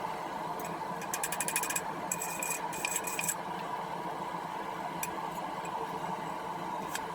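Steady hum of a running forge blower, with two quick runs of rapid metallic ticking, about ten a second, about a second in and again shortly after, and a few single clicks later.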